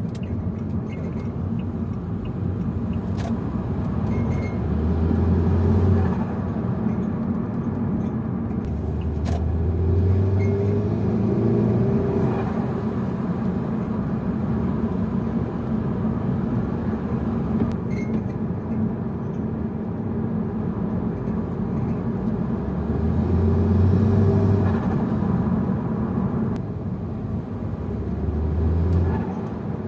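Saab 9-5 2.0t turbocharged four-cylinder engine running as the car drives, swelling louder four times as it accelerates, with a few sharp short sounds between the pulls. The engine breathes through an open air filter, which lets the turbo be heard.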